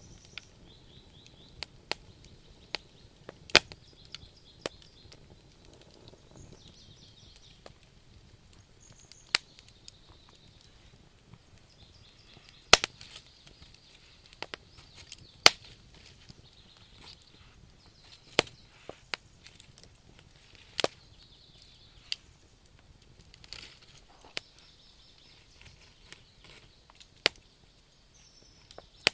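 Log campfire crackling: irregular sharp pops of burning wood, some much louder than others, over a faint steady background.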